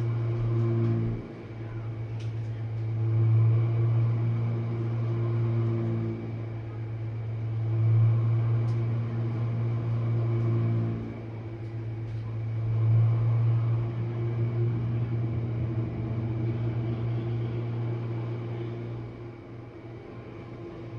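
Jenn-Air dishwasher running its main wash: the wash pump gives a steady low hum, and the water noise swells and fades about every five seconds.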